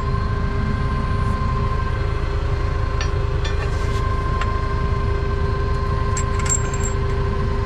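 Heavy equipment engine running steadily at idle, a constant low rumble with a steady hum over it, and a few light metallic clicks about three, four and six seconds in as lug nuts are worked onto the wheel studs.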